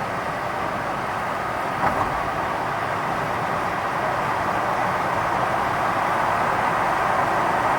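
Steady running noise of a vehicle in motion, with one short knock about two seconds in.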